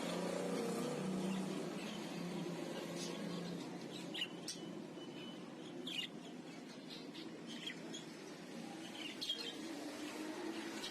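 Small caged pet birds chirping in short, scattered calls over a low, steady background murmur.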